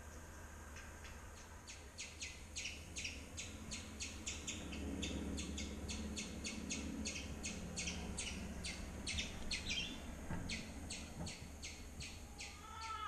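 Bird chirps played through a television's speakers from a nature video, short and evenly repeated at about three a second; a wavering cry starts right at the end.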